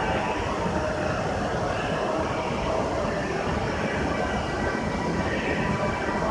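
A green E5-series Shinkansen creeping at walking pace toward a parked E6-series train to couple up, giving off a steady running noise with a faint steady whine. Its nose has not reached the other train, so no coupling clunk is heard.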